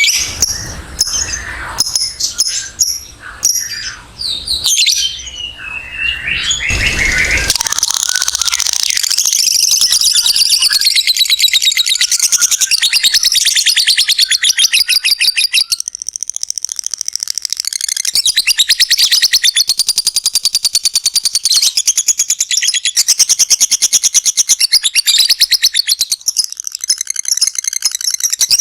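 Lovebird singing: several seconds of mixed high chirps and squeaks, then the long, fast chattering trill (ngekek panjang) of rapidly repeated shrill notes. The trill breaks off briefly about halfway, then carries on.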